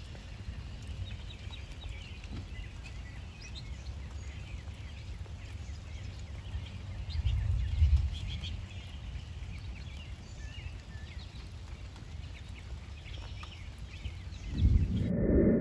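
Several birds singing: many short, high chirps and twitters, over a steady low rumble that grows louder twice, about halfway through and just before the end.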